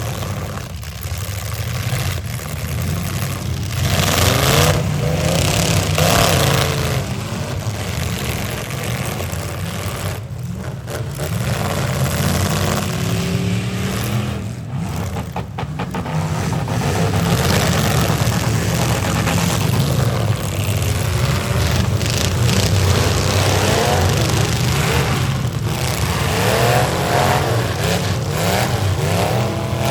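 Several demolition derby cars' V8 engines revving hard, pitch rising and falling again and again, over a steady low rumble.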